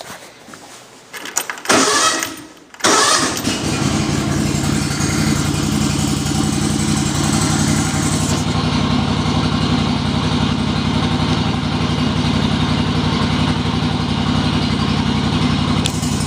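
John Deere LX280 lawn tractor engine cold-starting: a brief crank about two seconds in, then it catches at once and settles into steady running.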